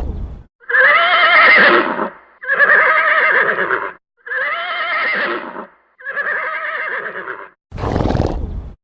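A horse whinnying four times in a row, each call about a second and a half long with a wavering pitch, and a short rushing blow of breath at the start and another near the end.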